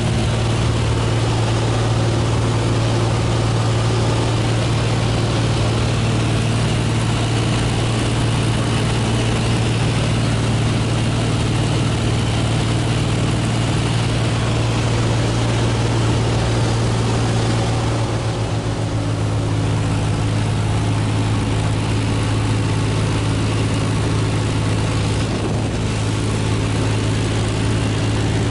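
Cessna 172 single-engine propeller plane in flight, its piston engine and propeller droning steadily over a rush of wind. About two-thirds of the way through, the engine note drops slightly.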